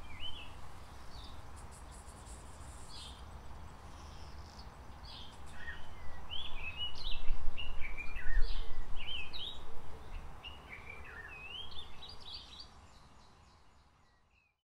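Many birds chirping and calling over a low rumble that swells in the middle, all fading out near the end.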